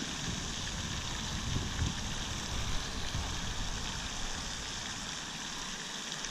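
Steady outdoor hiss, with irregular low rumbling underneath that drops away near the end.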